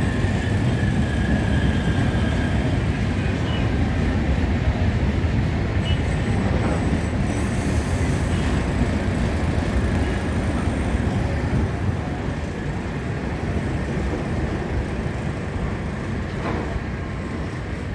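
Steady running rumble of a moving train heard from on board, easing off a little in the last few seconds.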